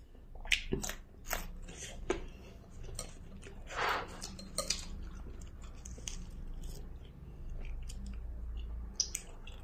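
Close chewing and biting of food, with scattered sharp crunches and clicks as raw green chili pepper and stir-fried silkworm pupae are eaten. A short breathy rush about four seconds in.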